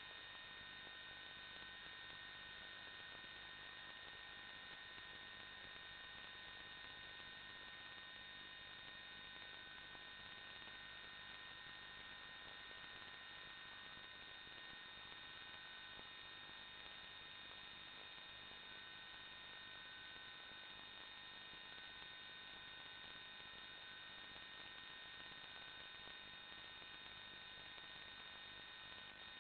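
Faint, steady electrical hum and hiss with several thin, unchanging high tones.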